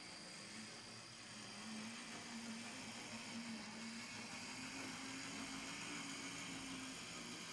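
HO-scale brass three-truck Shay locomotive model running on track, its open-frame electric motor giving a wavering hum that rises a little in pitch and grows louder about a second and a half in, over a light hiss.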